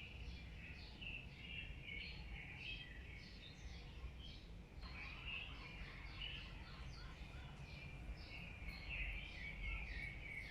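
Birds chirping, many short overlapping calls, over a steady low rumble.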